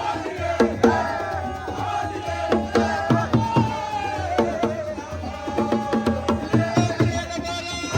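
Live drum-group music: quick hand-drum strokes, each with a short ringing tone, under a melody that slides up and down.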